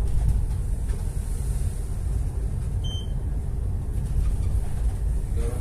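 Boat's engine running with a steady low drone, heard from on board. A short electronic beep sounds once about three seconds in.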